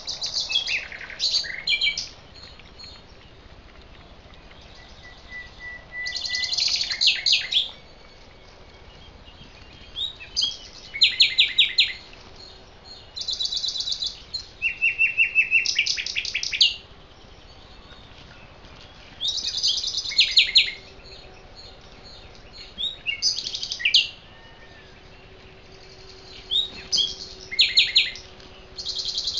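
A songbird singing loud phrases of rapid, repeated high notes. Each phrase lasts one to two seconds, with pauses of a few seconds between them.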